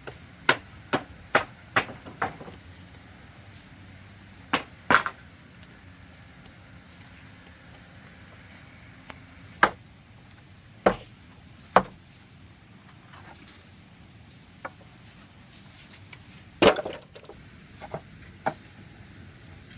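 Sharp knocks of a hand tool striking: five in quick succession in the first couple of seconds, a pair a few seconds later, then single strikes every second or few seconds.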